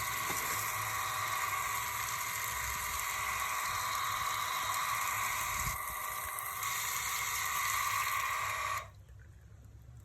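Restored electric water pump running with a steady motor whine and the hiss of water, cutting off suddenly about nine seconds in, after which a quieter low rumble of water remains.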